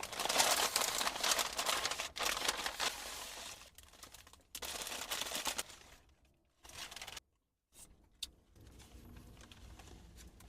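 Paper sandwich wrapper crinkling and tearing as it is unwrapped, loudest in the first few seconds, then in shorter bursts of rustling that fade toward the end.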